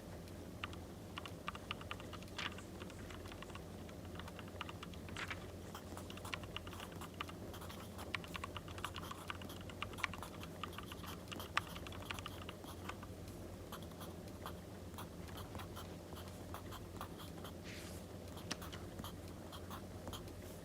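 Pencil writing on paper: a dense run of light scratches and ticks, with a few sharper taps, over a steady low hum and soft wood-fire crackling.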